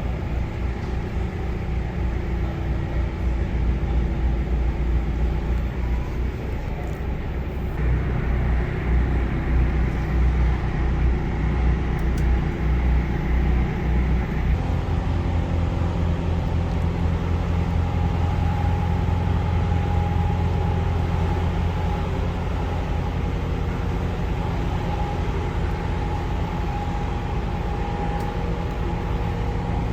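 Narrowboat diesel engine running steadily under way, a low even throb; it gets louder about eight seconds in and its note shifts about halfway through.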